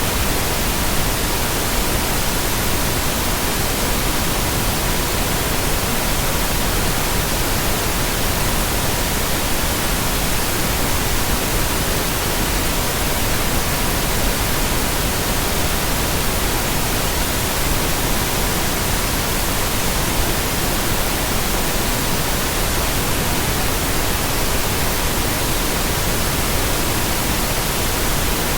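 Steady synthesized pink noise, an even hiss with no change, with a faint steady pure tone at about 963 Hz running beneath it.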